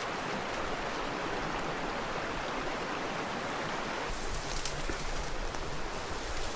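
River water flowing steadily. About four seconds in, the sound shifts to a fuller rush with a low rumble and a few light clicks and knocks.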